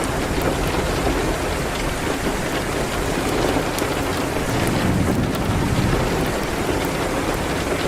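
Steady rain with scattered sharp ticks and crackles through it. A low rumble swells about five seconds in.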